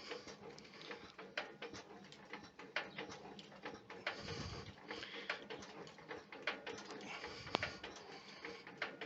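Car engine being turned over by hand: faint, irregular clicks and light mechanical rattling. The rattle that shows up with the engine running is not heard when turned by hand.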